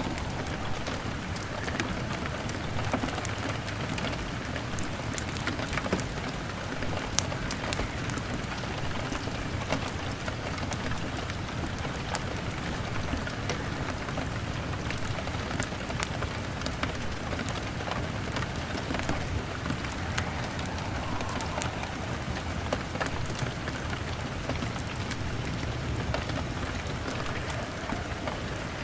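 Steady rain pattering on a window, mixed with the frequent small pops and crackles of a wood fire.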